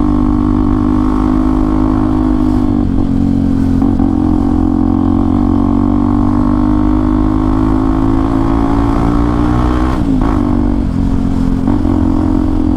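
Hero XPulse 200 4V's single-cylinder engine running through an aftermarket Akrapovič exhaust: a steady, loud, low note whose pitch briefly dips and recovers about three seconds in and again about ten seconds in.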